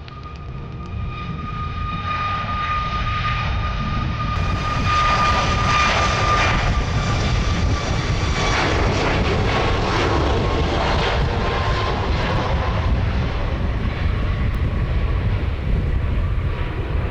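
Jet airliner engines passing close by: the noise builds over the first few seconds to a loud, steady rumble, with a high whine that drops slightly in pitch about ten seconds in.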